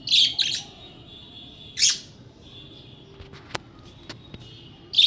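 Budgerigar calling: a loud harsh double call at the start, another a little under two seconds in and one more at the end, with soft chattering between. A few sharp clicks come around the middle.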